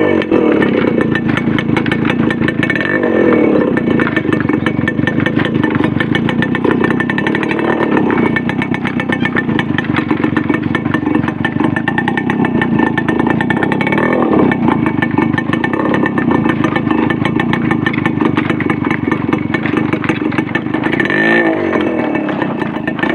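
Yamaha RX 135 motorcycle's two-stroke single-cylinder engine running hard, its revs rising and falling now and then.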